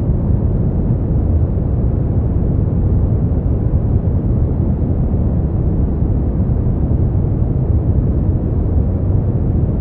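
Steady, unchanging noise from a sleep-aid noise track. It is deep and rumbling, with little high hiss.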